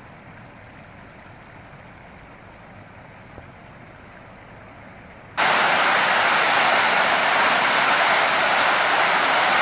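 Fast-flowing floodwater rushing, a steady hiss of water; about five seconds in it cuts abruptly to a much louder, closer rush.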